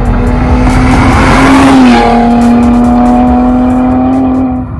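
Eighth-generation Toyota Camry accelerating past, its loud engine and exhaust note holding one steady pitch, then dropping in pitch about two seconds in as it shifts up. There is a rush of passing noise as it goes by closest.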